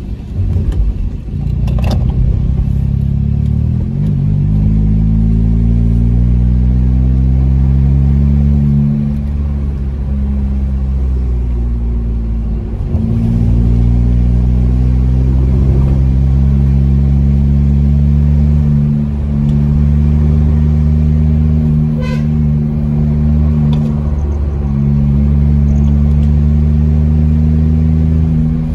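Volkswagen Polo's engine and exhaust heard from inside the cabin on the move. The revs climb under throttle, drop back at gear changes and then hold steady. A brief horn toot sounds about three-quarters of the way through.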